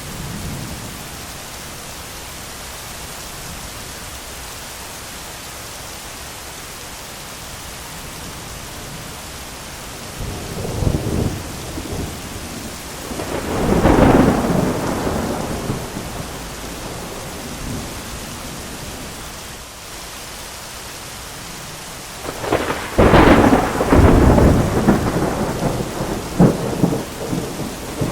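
Steady heavy rain with thunder: a rumble about ten seconds in, a louder peal a few seconds later, and the loudest, longest crackling thunder clap in the last quarter, breaking up into rumbles near the end.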